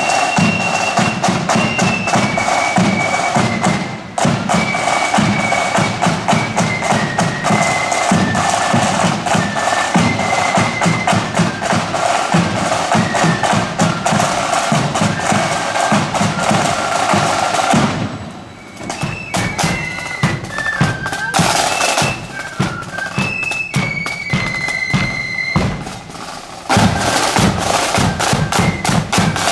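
Marching band playing a tune on the march: a high melody line over rapid snare drumming and bass drum beats. About two-thirds through, the band thins out for several seconds, then comes back in full.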